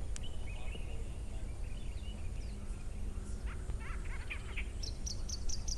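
Birds chirping in short scattered calls, with a quick run of about six high, evenly spaced notes near the end, over a steady low rumble.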